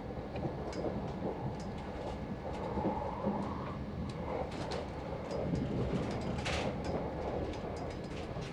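Heathrow Express electric train heard from inside the carriage while running at speed: a steady rumble with scattered light clicks and rattles. A short hiss comes about six and a half seconds in.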